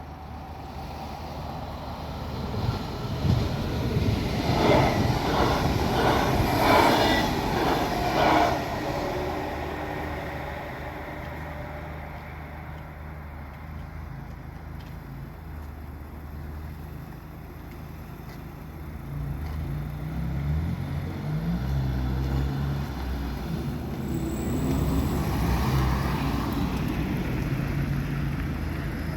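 Vehicles passing close by: one goes past loudly a few seconds in, with a quick run of thumps, and after a quieter spell another vehicle's engine rises and runs on from about two-thirds of the way through.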